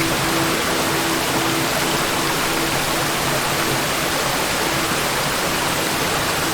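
Waterfall: water falling and splashing in a continuous, steady rush.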